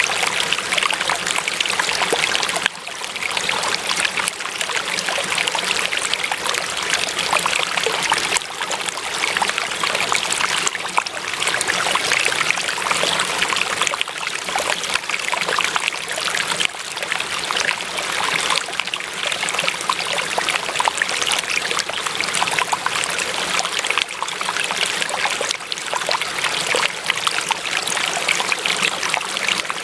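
Steady running water of a stream, trickling and burbling evenly.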